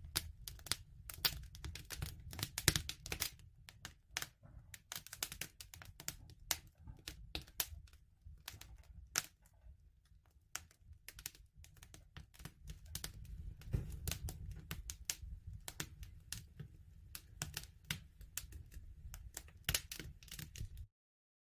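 Wood fire crackling: irregular sharp snaps and pops over a low rumble of burning. It cuts off suddenly near the end.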